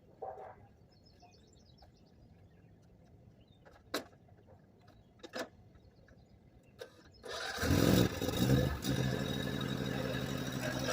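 A few sharp clicks, then a lawn mower's small gasoline engine starts about seven seconds in and settles into a steady run.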